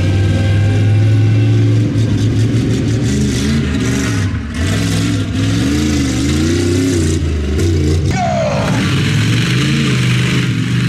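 Large vehicle engine running, its pitch rising and falling as it is revved. A quick falling whine cuts across it about eight seconds in.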